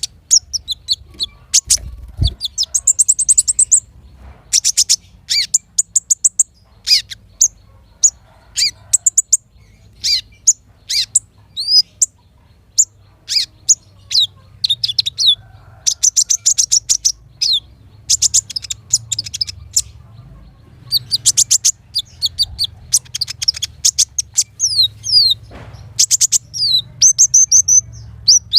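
Small songbirds singing: a rapid run of high, sharp chirps, quick sweeping notes and short buzzy trills, broken by brief pauses, over a faint low hum.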